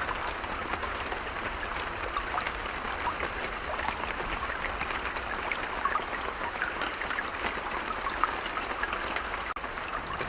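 Steady rain falling, with many separate drop ticks heard close by over an even hiss. The sound drops out for a moment just before the end.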